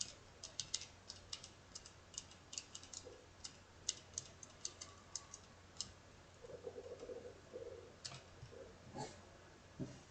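Faint, irregular light taps of a fingertip dabbing white gouache onto paper to paint foam, several a second at first and fewer after about six seconds.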